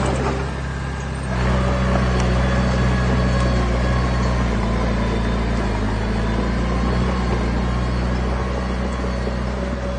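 Heavy diesel engine of a construction machine running steadily. About a second in it revs up and holds at the higher speed.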